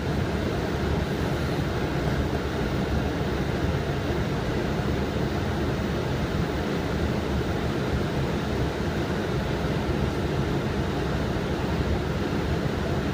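Steady rushing cockpit noise of a Boeing 777 flight deck in flight on descent, made of airflow and engine hum, even throughout.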